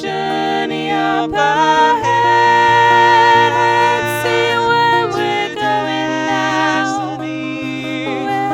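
Acoustic guitar accompanying singing, with a long held sung note from about two to five seconds in.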